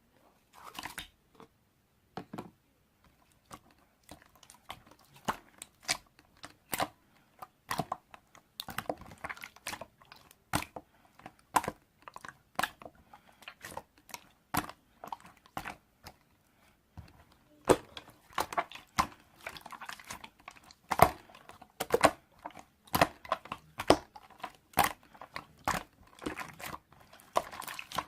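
Crisp green apple being bitten and chewed: sharp crunches about a second apart at first, coming faster and louder in the second half.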